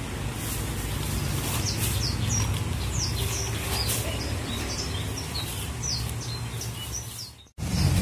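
Small birds chirping: short, high chirps, a few a second, over a steady low background rumble. The sound cuts out abruptly for a moment near the end.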